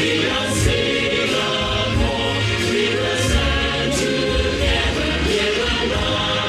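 A song sung by a large choir over backing music with a steady low beat.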